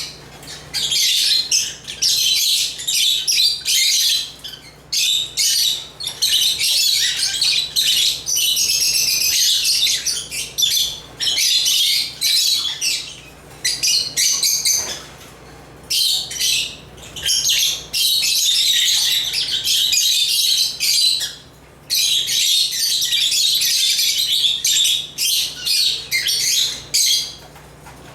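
African lovebirds chirping in long bouts of rapid, high-pitched chatter, broken by several brief pauses.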